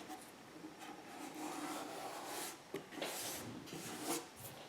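Paper rubbing and rustling as cut-out paper pieces are handled and slid on a work table, in several soft swells.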